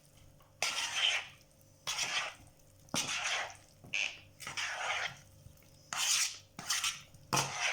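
A spoon scraping and stirring around a bowl, mixing a marinade in repeated strokes about once a second.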